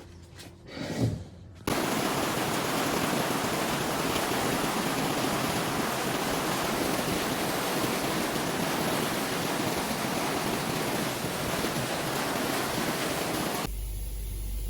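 A steady, loud hiss that starts suddenly about two seconds in and cuts off just before the end, leaving a low hum.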